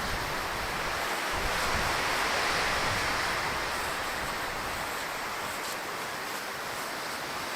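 Wind gusting, a steady rushing that swells about two seconds in and slowly eases off.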